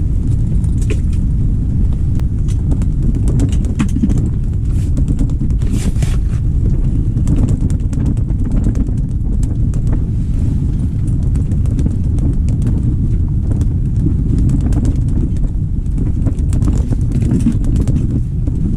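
Strong wind buffeting the microphone on open ice: a loud, steady low rumble, with scattered faint ticks over it.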